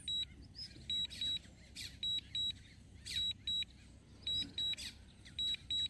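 Drone remote controller sounding its critical low-battery warning as the drone is forced to land: short, high double beeps repeating about once a second, with faint rustling in between.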